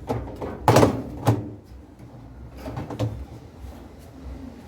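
Plastic top panel of a washing machine being lifted and handled, knocking and rattling: two louder knocks about a second in, then lighter clicks near three seconds.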